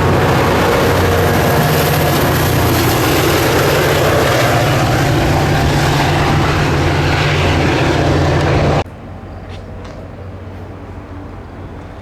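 Caltrain diesel-hauled commuter train running close by, loud and steady with a deep engine drone and a thin high whine. It cuts off abruptly about nine seconds in, leaving much quieter background sound.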